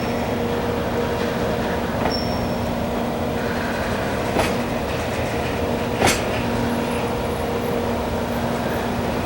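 Freight train of empty oil tank wagons running on the rails: a steady rumble with a constant hum, broken by three sharp clanks about two seconds apart, the last the loudest.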